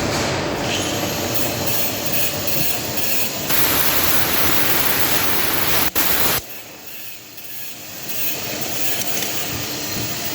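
Metal lathe cutting a thread, a steady grinding machining noise. It turns louder and harsher for about three seconds in the middle, then drops quieter before building up again.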